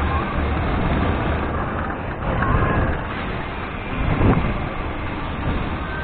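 Road and traffic noise during a ride, with a steady low rumble. A motor vehicle passes close by about four seconds in.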